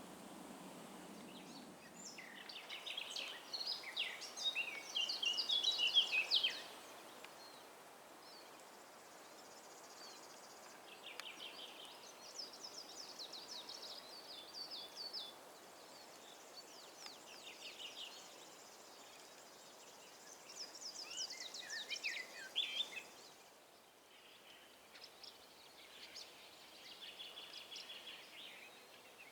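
Small songbirds singing: several phrases of quick, high chirping notes, the loudest about two to six seconds in and others around eleven and twenty seconds in, over a faint steady hiss.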